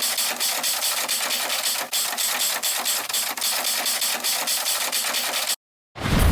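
An engine running steadily with an even, rapid pulse, cutting off suddenly near the end, followed at once by a loud sudden sound.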